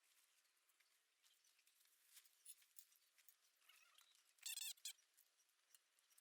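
Near silence with faint scattered clicks; about four and a half seconds in, a brief high-pitched animal call, a few quick notes.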